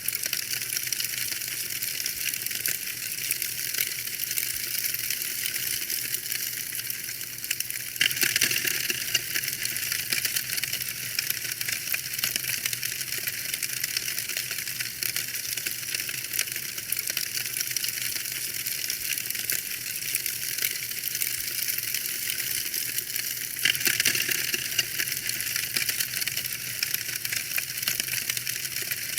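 Fire crackling in a fireplace: a dense, unbroken stream of small pops and snaps, swelling louder for a couple of seconds about eight seconds in and again a few seconds before the end.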